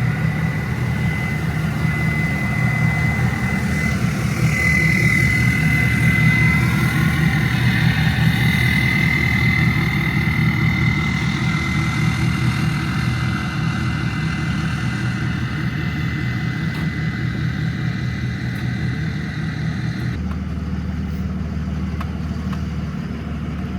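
Diesel truck engine idling with a steady high whistle from its VGT (variable-geometry) turbo, freaking loud. About twenty seconds in, the whistle cuts off suddenly and the low engine note changes.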